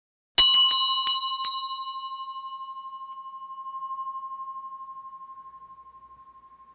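A metal bell struck five times in quick succession, about half a second in, then ringing on as one long wavering tone that slowly fades.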